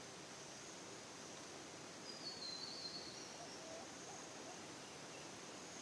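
Forest ambience: a steady background hiss with a bird calling once, a short high phrase about two seconds in that steps down in pitch.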